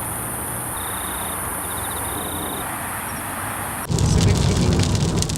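A steady rushing noise that changes abruptly about four seconds in to louder rain falling on a car, many drops ticking on the body over the low rumble of the car running.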